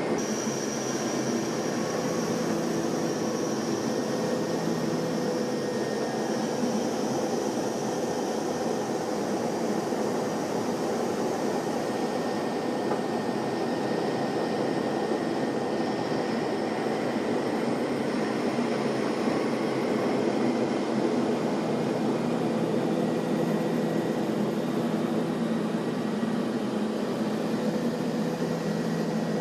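Steady drone of an aircraft in flight: even engine and airflow noise with a few constant tones, unchanging throughout.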